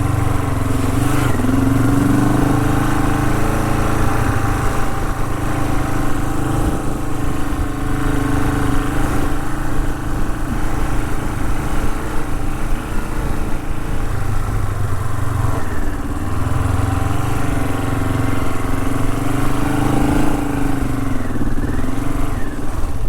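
Classic Honda CL450 parallel-twin motorcycle engine running under way on a rough trail, its note rising and falling repeatedly as the throttle is opened and closed.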